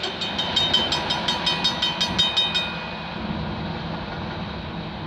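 Freight train rolling past with a quick, even clicking of wheels, about five a second. The clicking stops about two and a half seconds in as the end of the train goes by, leaving a fading rumble.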